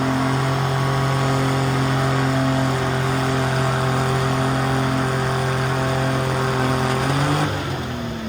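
Garden pulling tractor's engine running hard at a steady high pitch, then briefly rising and dropping away as it is throttled down near the end.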